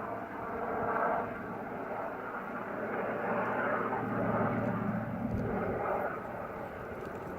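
Firefighting helicopter flying, a steady engine and rotor drone that swells and eases a little as it moves.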